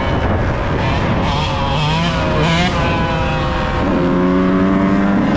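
Yamaha YZ125 two-stroke single-cylinder dirt bike engine revving under riding, its pitch rising and falling with the throttle, then held at a steady pitch for about a second and a half near the end.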